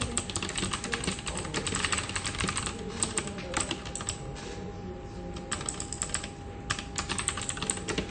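Typing on a computer keyboard in bursts: a fast run of keystrokes for the first three seconds or so, a few scattered keys, then more quick runs after about five and a half seconds. A faint steady hum runs underneath.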